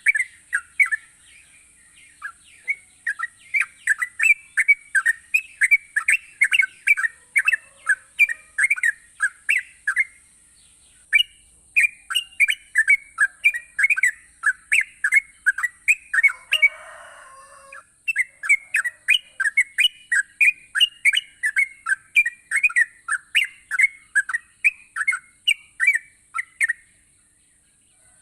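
Yellow-vented bulbul (trucukan) singing persistently: a fast run of short, bubbly chirped notes, about two to three a second, with a brief pause around ten seconds in.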